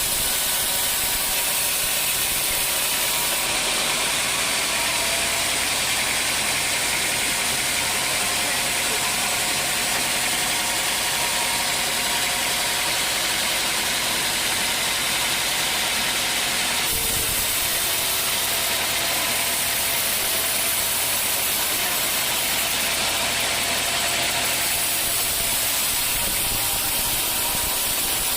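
Sawmill running and sawing dry old teak: a steady, loud mix of machine noise and saw noise with a faint whine, and a short break in the sound about two-thirds of the way through.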